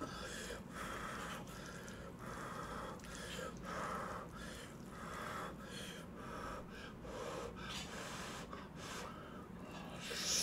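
Soft, regular chewing of thick, sticky Chapagetti noodles close to the microphone, the wet mouth sounds repeating about one and a half times a second, with breathing between them.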